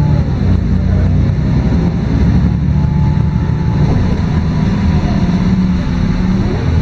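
LiAZ-5292.22 low-floor city bus under way, heard from inside the passenger cabin: a steady low diesel engine drone with road noise.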